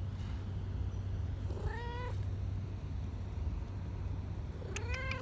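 A cat meowing twice, each meow a short call that rises in pitch, over a steady low rumble.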